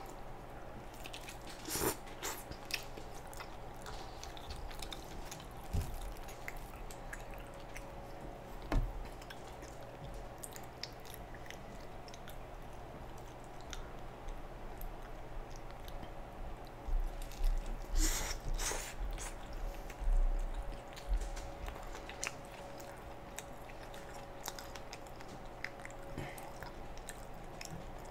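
Close-up chewing and biting of pizza with wet mouth clicks, and a few louder crunching bites about two seconds in and again around the two-thirds mark. A faint steady hum runs underneath.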